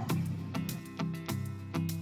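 Background music: a strummed guitar track with a steady rhythm of chords.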